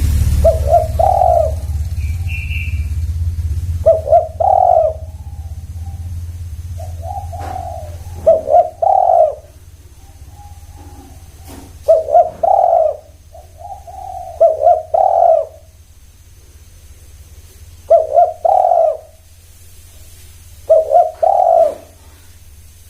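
Spotted dove (tekukur) cooing: about seven short phrases of a few low coos each, repeated every two to four seconds. A low rumble underlies the first several seconds.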